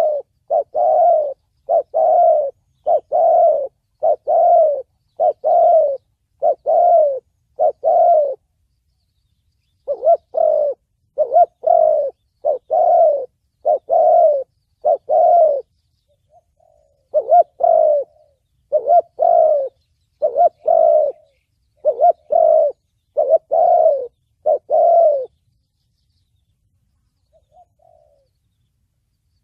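Spotted dove cooing: a loud, steady series of short coos, about one a second, each with a doubled start, in three runs split by short pauses and ending about four seconds before the end. This is the 'thổ bầu' call type that bird keepers play to lure and train decoy doves.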